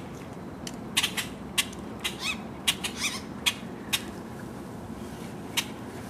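Birds calling: an irregular series of sharp chips and short squeaky notes that rise and fall, bunched about a second in and again between two and four seconds in, over a steady low background hum.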